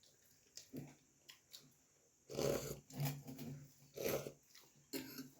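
Close-up mouth sounds of a person chewing puri and vegetable curry, in several short bursts, some with a low hum.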